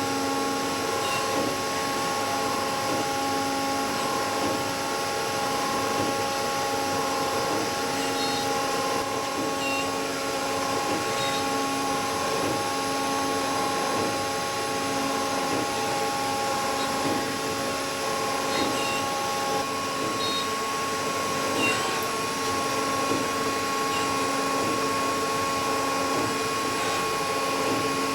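INDEX MS40C multispindle CNC lathe running: a steady machine hum with several held whining tones, a lower one cutting in and out every second or two.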